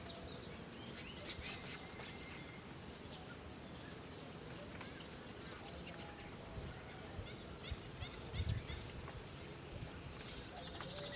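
Short, high bird chirps and ticks scattered over steady outdoor background noise, clustered about one to two seconds in. A dull low thump comes about eight and a half seconds in.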